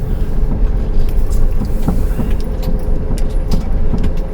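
Engine running, heard from inside the camper van's cabin: a steady low rumble with a constant hum, and a few light clicks and rattles in the second half.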